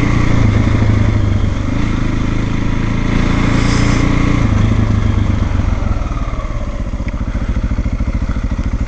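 Single-cylinder trail motorcycle engine running on the move, then backing off about halfway through to a slower, even beat as the bike slows.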